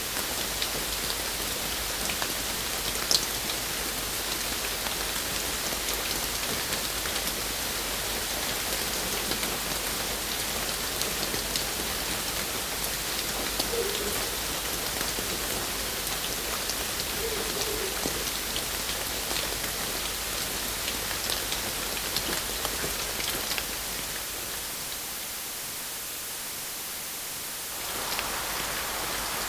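Rain falling steadily, with individual drops ticking against a surface. It fades down about three-quarters of the way through, and a different rain recording comes in shortly before the end.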